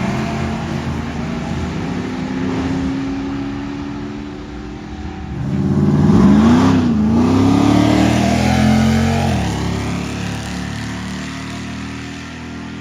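Car engine revving hard under full acceleration: the pitch climbs steeply from about five seconds in, drops once at a gear change, climbs again and cuts off abruptly near nine seconds, over a steady engine rumble before and after.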